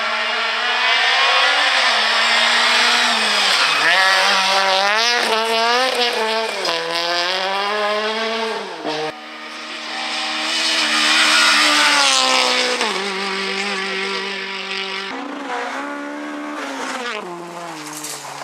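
Rally car engines driven hard on a special stage, revving up and dropping back again and again through gear changes, with tyre squeal. The engine note changes abruptly about nine seconds in, then rises and falls again before easing off towards the end.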